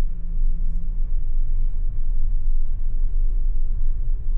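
Steady low rumble of a Jetour T2 SUV driving on the road, heard from inside the cabin.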